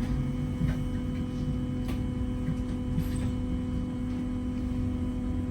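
Steady hum and low rumble inside a Wright Gemini 2 hybrid double-decker bus, with a few faint rattles and clicks.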